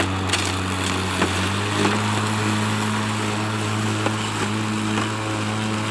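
Stihl 510 battery-powered lawn mower running steadily through deep, thick grass, a steady electric motor and blade hum. The hum steps up slightly in pitch about two seconds in, as the eco setting adjusts blade speed to the load. A few faint ticks come from stems and debris being cut.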